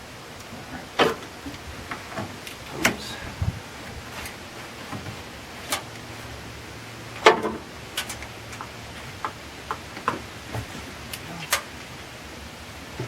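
Scattered sharp clicks and knocks of hand tools and metal parts being handled under the hood, about a dozen at irregular intervals, the loudest about seven seconds in.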